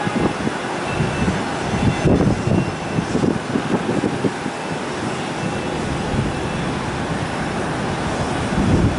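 Strong wind buffeting the microphone in irregular gusts over a steady rushing noise.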